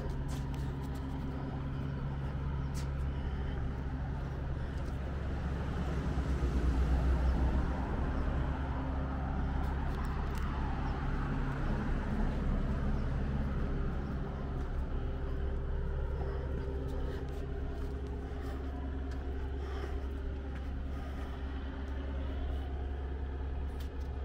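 Street traffic: a motor vehicle's engine running steadily, a low rumble that swells about six to eight seconds in and then eases.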